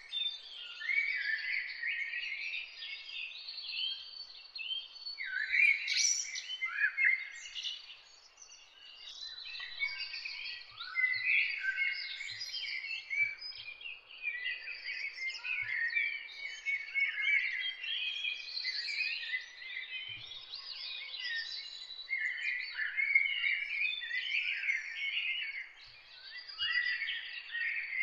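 Birds chirping and twittering, many quick overlapping chirps without a break.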